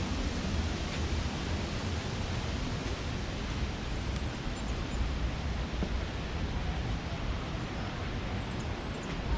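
Steady rushing of falling water from a waterfall or mountain stream, with a few faint, high bird chirps about four seconds in and near the end.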